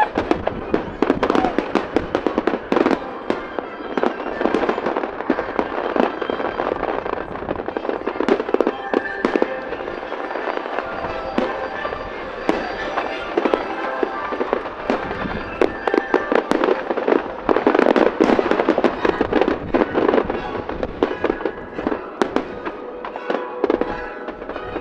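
Aerial fireworks display going off continuously, many bangs and crackles in quick succession, with music playing underneath.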